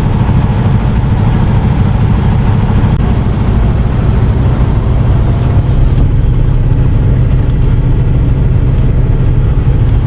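Semi-truck's diesel engine running steadily with a deep, even hum. A hiss above it stops about six seconds in, after which a few faint ticks are heard.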